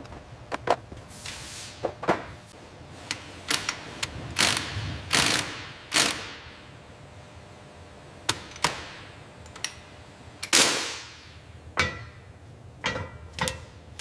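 Irregular sharp knocks and clicks of tools on metal, mixed with short hissing bursts, some strikes ringing briefly near the end. These are workshop sounds of car restoration work.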